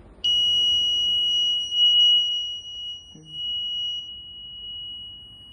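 Electronic buzzer of a flood detector sounding one high, steady tone, switching on abruptly just after the start and holding without a break: the alarm that the water has reached the set level.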